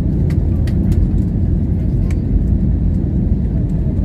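Airliner's engines during takeoff or climb: a steady, loud, low rumble with no rise or fall, with a few faint clicks.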